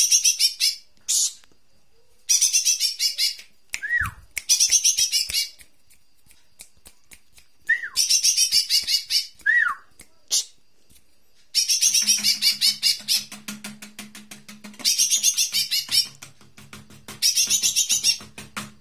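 Recorded song of a cucak ijo mini (small leafbird) used as a bird-training call: loud, rapid, high-pitched chattering phrases about a second long, repeated with short pauses, with a few brief down-slurred whistles between them. A steady low hum joins in about two-thirds of the way through.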